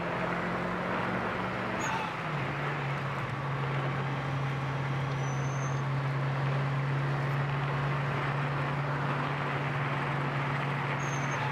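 Mitsubishi Lancer Evolution IV's turbocharged four-cylinder engine heard from inside the cabin at speed: a steady drone that drops in pitch about two seconds in and then holds, over tyre and road noise.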